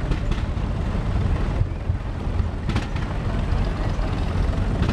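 Vintage tractor engine running with a low, steady rumble, a few faint clicks over it.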